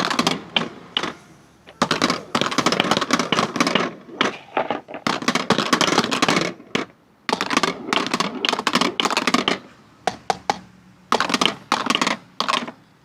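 Marbles rolling and clattering down wooden ramps: dense, rapid clicking and clacking in several bursts with short pauses between them, dying away just before the end.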